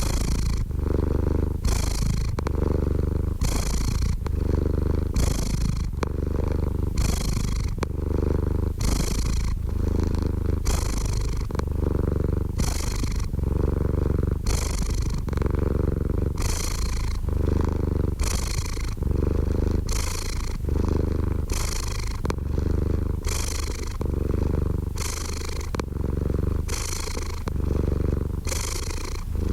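Domestic cat purring close up: a continuous low rumble that swells and changes in an even rhythm about once a second as it breathes in and out.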